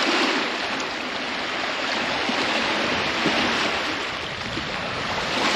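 Lake waves washing onto the shore, a steady rushing with small swells in loudness.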